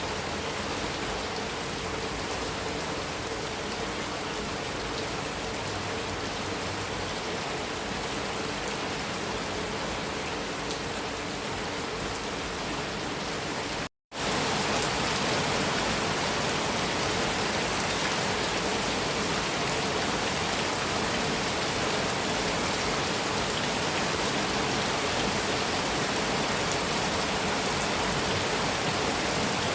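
Heavy rain falling steadily on a metal roof. It cuts out for a split second about halfway through, then comes back a little louder.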